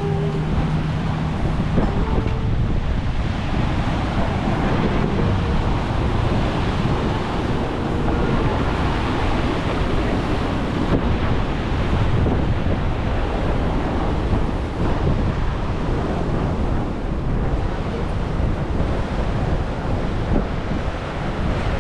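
Wind buffeting the microphone over the steady wash of sea surf breaking on the shore.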